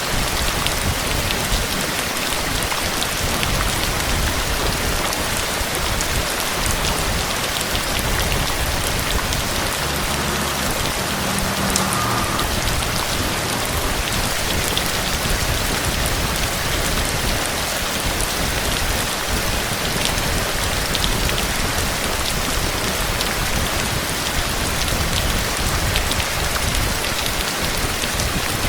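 Heavy rain falling steadily in a storm, a dense, even patter of drops striking a surface.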